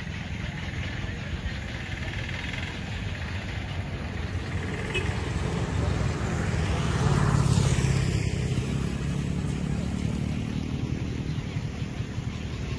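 A motor vehicle passing on the road: a low rumble that builds to its loudest about seven seconds in, then eases off.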